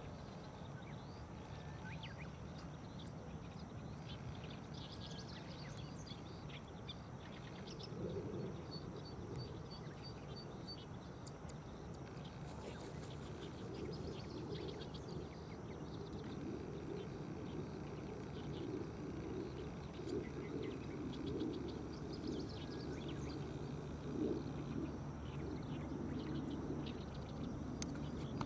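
Small birds chirping and calling in the background, with a short quick trill of evenly spaced notes about eight seconds in, over a steady low outdoor background noise.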